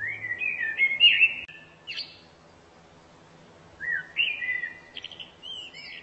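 A songbird singing: a rapid phrase of whistled, gliding notes, a short sharp note about two seconds in, and a second whistled phrase starting about four seconds in.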